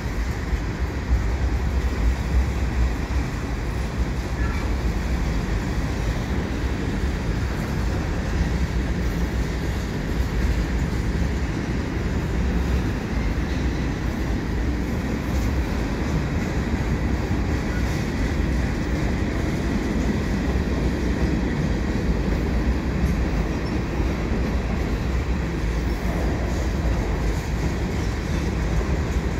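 Cars of a mixed freight train, covered hoppers, a tank car and boxcars, rolling past at close range: a steady rumble of steel wheels on the rails.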